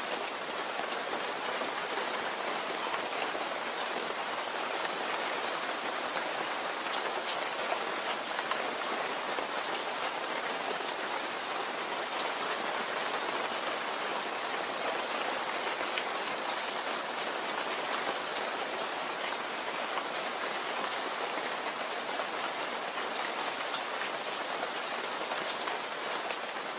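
Steady, even rain falling and pattering on a surface, with many fine drop ticks and no change in intensity.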